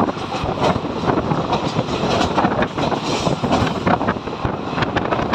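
Triveni Express passenger coach running at speed, its wheels clattering irregularly over the rail joints and points, with wind buffeting the microphone at the open coach door.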